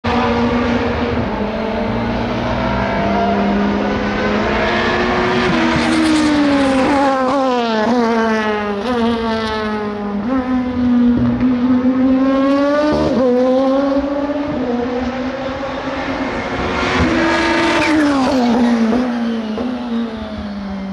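SUPER GT racing cars running on a circuit, several engine notes at once rising and falling as the cars accelerate, shift and pass by. Sharp drops in pitch come about six seconds in and again near the end.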